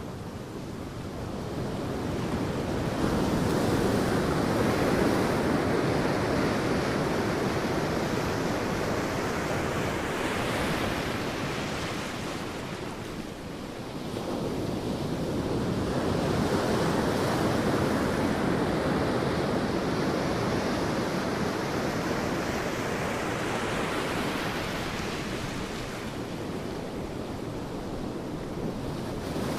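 Sea waves breaking and washing onto a beach: a steady surf rush that swells and fades in two long surges, with a lull about halfway through.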